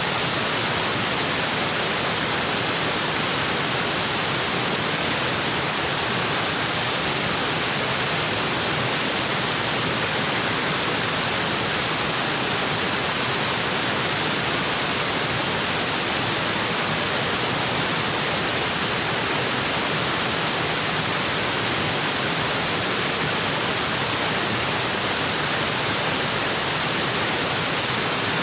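Tropical waterfall: water falling onto rocks in a steady, unbroken rush of noise.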